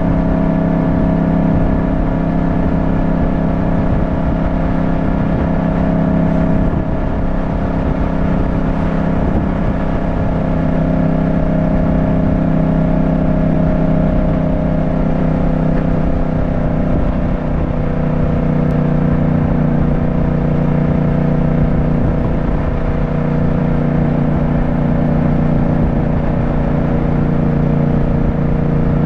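Yamaha motorcycle engine running steadily under way, its pitch sagging gently midway and climbing again near the end. Low rumbling wind noise runs underneath.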